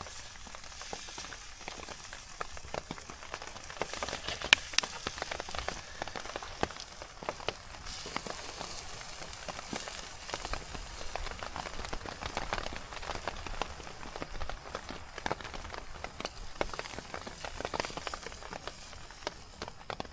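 Steady rain falling, with many irregular ticks of single drops. One sharp tick about four and a half seconds in is the loudest.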